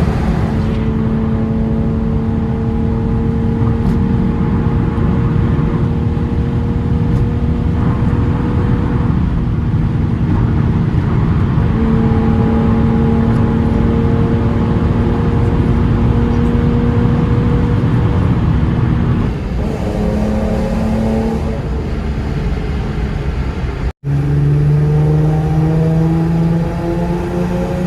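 Hyundai Genesis Coupe's 3.8 V6 under way through an ARK full exhaust with test pipes. It holds a steady drone at an even speed for most of the time. Near the end there is a brief gap, and then the note climbs steadily as the car accelerates.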